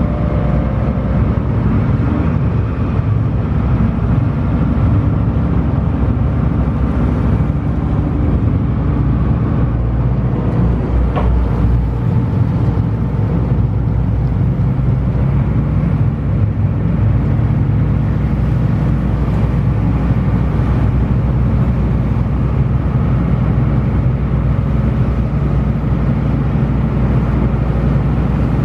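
Small passenger ferry's engine running steadily under way, a loud, even low drone heard on board, with a single brief click about eleven seconds in.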